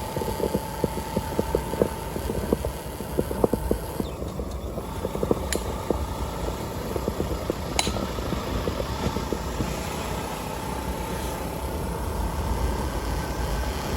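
Motorcycle running along a road: a steady engine hum with road rumble and many small knocks from the ride, plus two sharp clicks, one about five seconds in and one about eight seconds in.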